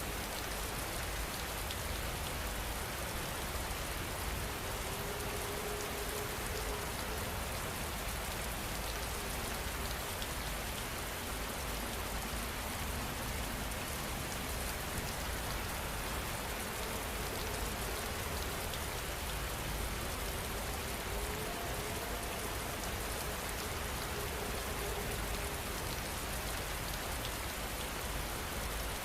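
Steady rain falling: an even, unbroken hiss of raindrops on a surface.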